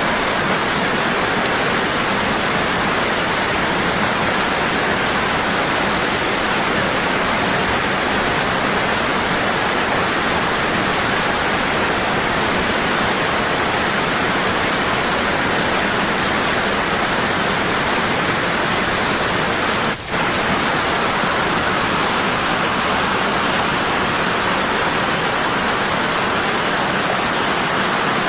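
Waterfall falling strong and constant, a steady rush of water, with a brief dip in level about twenty seconds in.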